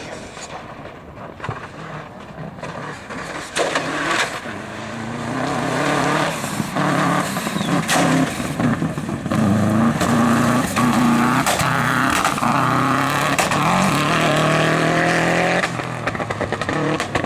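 Rally competition car engine at full throttle on a gravel stage, growing louder as it approaches. Its pitch climbs and breaks several times as it shifts up, then the sound drops away sharply near the end.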